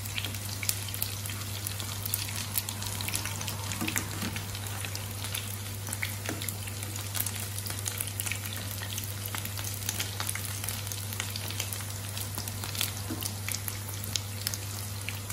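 Rice-and-egg kebab patties shallow-frying in hot oil in a pan, a steady sizzle full of small crackles and pops. Metal utensils scrape and tap in the pan now and then as the patties are turned, over a steady low hum.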